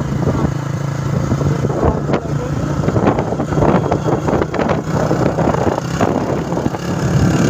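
Motorcycle engine running steadily at a constant low hum while riding, under a heavy rush of wind and road noise, with scattered knocks and rattles.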